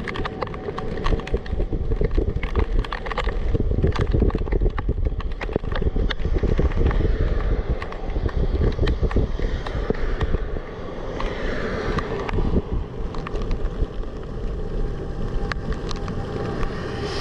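Strong storm wind gusting hard against the microphone with a heavy rumble and many sharp taps, while an outdoor tornado warning siren sounds faintly behind as a steady tone.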